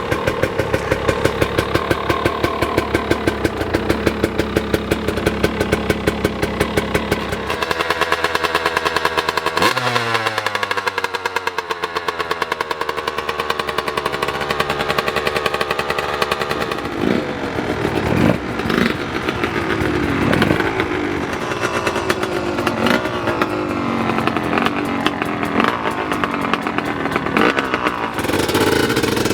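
Enduro motorcycle engines running: a steady, evenly pulsing idle at first, then about ten seconds in one engine's pitch falls sharply, followed by uneven blips of revving through the rest of the stretch.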